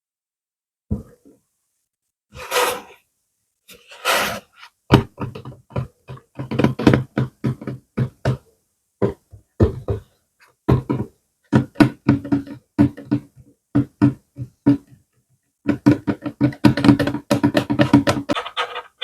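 Close-miked ASMR trigger sounds: two breathy whooshes a few seconds in, then a long run of rapid sharp clicks and pops in quick clusters, some with a low hum beneath them.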